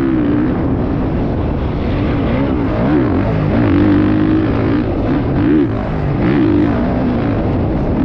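Motocross bike engine revving up and down again and again, its pitch rising and falling every second or so over a heavy low rumble.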